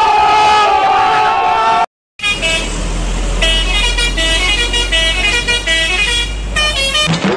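Bus telolet (Basuri) musical horn: one held horn note that bends up as it starts, then after a short break a tune of quick stepping horn notes.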